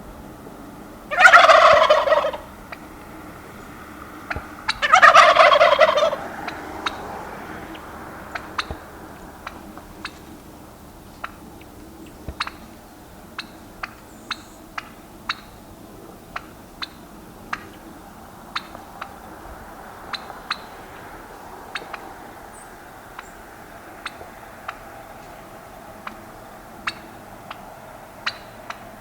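Domestic turkey gobbling twice, each a loud rapid rippling call about a second long, a few seconds apart. Afterwards only scattered short sharp ticks over a faint background.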